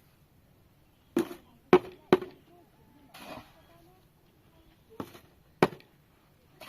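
Sharp knocks: three in quick succession a little over a second in, then two more around five seconds, each with a short ring.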